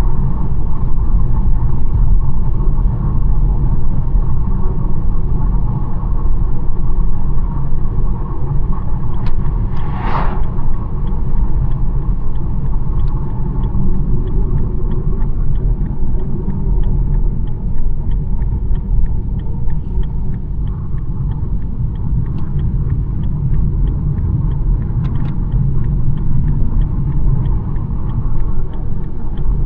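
BMW 1 Series driving along at speed: a steady low rumble of road and engine noise. About ten seconds in comes a brief rush of noise, and faint regular ticking, about two a second, runs through much of the rest.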